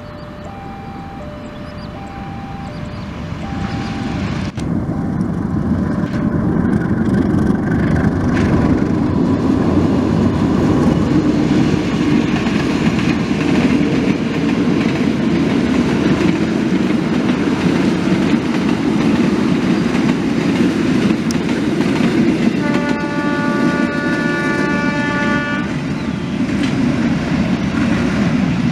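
A level-crossing warning signal sounds a repeating two-tone pattern. Then a diesel locomotive hauling passenger coaches passes with a loud steady engine and wheel rumble. About 23 seconds in, the locomotive's horn blows one long blast of about three seconds.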